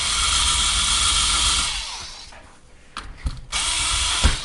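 A small handheld electric power tool's motor running in two bursts: a longer run that winds down with falling pitch after about two seconds, then a second shorter run near the end.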